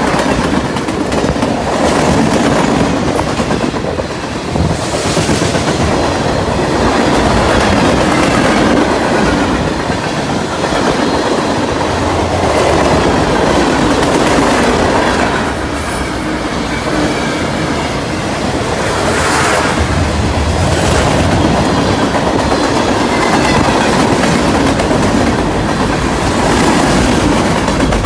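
Cars of a mixed freight train rolling past close by: a steady loud rumble with the clickety-clack of steel wheels over rail joints.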